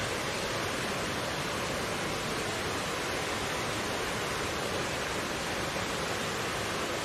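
Mountain stream flowing, a steady even rush of water with no breaks.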